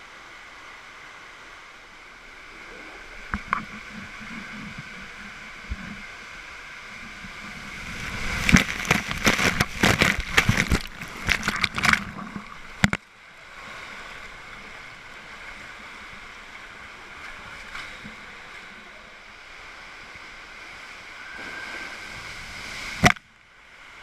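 Water running through a speed slide tube. In the middle comes a stretch of about four seconds of loud, irregular splashing and knocking, which ends in a sharp knock and a sudden drop in level.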